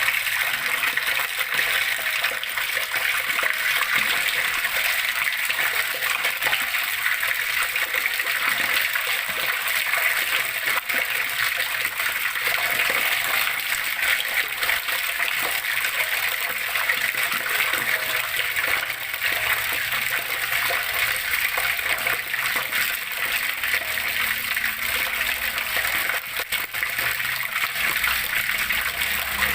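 Running water splashing and gurgling steadily, an unbroken even rush with no pauses.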